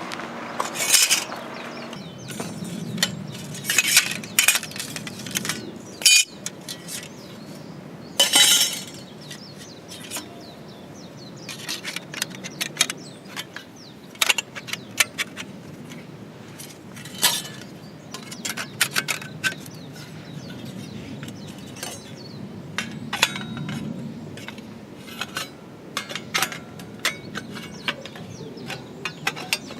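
Irregular clinks and knocks of camp cookware and utensils being handled, with a few louder brief rustles early on.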